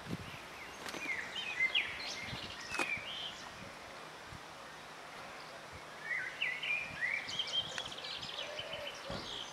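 Outdoor ambience with birds chirping in the background. Short high chirps and quick trills come in two clusters, about a second in and again about six seconds in.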